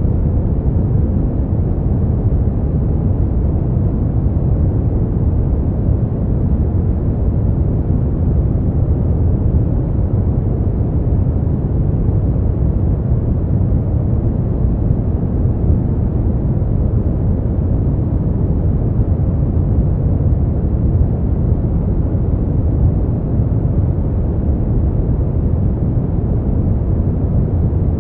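Steady brown noise: a constant, deep, even rumbling hiss, strongest in the low end and dull in the highs, with no changes.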